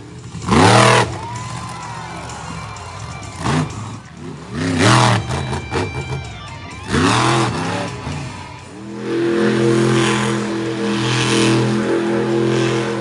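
Monster truck's supercharged V8 revved hard in four separate throttle blasts, each rising and falling in pitch, then held at steady high revs for the last few seconds.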